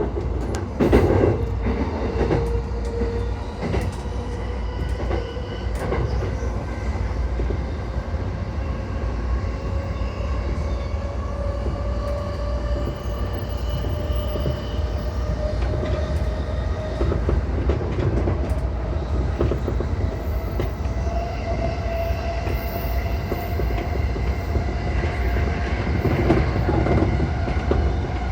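E235-1000 series electric train running, its motor whine a set of tones that climb slowly and steadily in pitch as the train gathers speed, over a constant rumble of wheels on rail. A few clicks come near the start.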